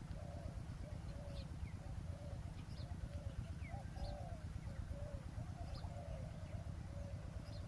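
Spotted doves cooing over and over in short phrases, with a few brief high chirps from small birds and a low rumbling noise underneath.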